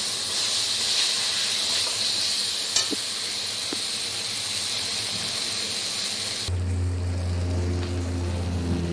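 Jujubes and a lump of jaggery sizzling in hot oil in a wok, with a couple of light clicks from the spatula. About six and a half seconds in, the sizzle cuts off abruptly and a steady low hum with a few held tones takes over.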